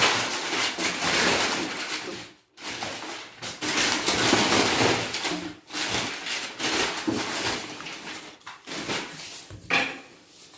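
Household objects being handled: irregular scraping and rustling with a few sharp knocks.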